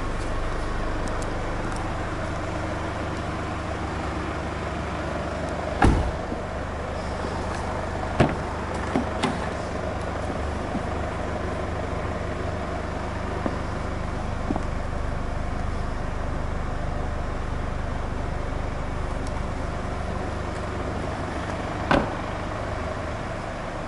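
Infiniti Q50's 2.2-litre diesel idling steadily, with a few sharp thumps and clicks of its doors being handled, the loudest about six seconds in and another near the end.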